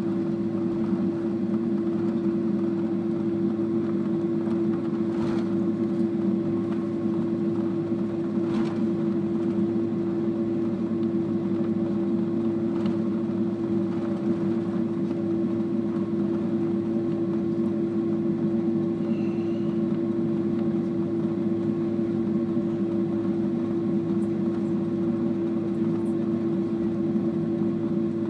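Steady drone inside an airliner cabin on the ground after landing, from the idling jet engines and cabin ventilation, with a constant hum and a few faint clicks.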